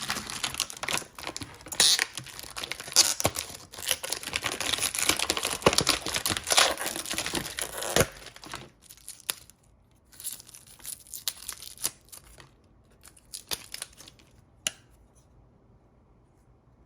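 Packaging crinkling and tearing as the pliers are handled, busy for about the first eight seconds. It thins out to a few scattered rustles, then a single sharp click about fifteen seconds in.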